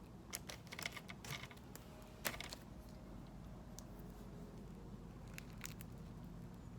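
Small clicks, taps and crinkling of objects being handled, with one sharper knock a little over two seconds in, then only a few faint clicks over a low steady hum.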